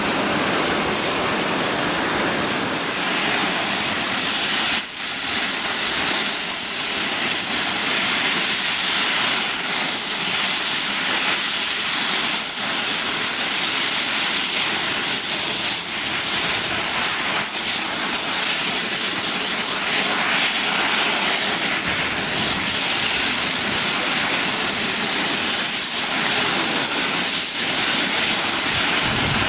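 Steam locomotive venting steam: a loud, steady hiss that grows louder and higher about three seconds in, then holds.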